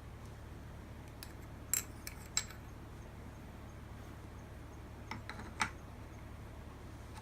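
Light metallic clinks of small metal engine parts being handled, a few around two seconds in and a few more around five seconds in, over a steady low hum.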